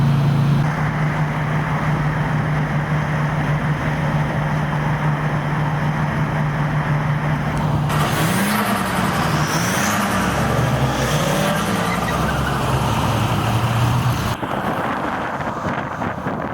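Car engine and road noise at freeway speed, a steady drone that from about halfway rises and falls in pitch several times, then stops near the end, leaving wind-like noise. The car is one that keeps lurching and breaking down on the freeway.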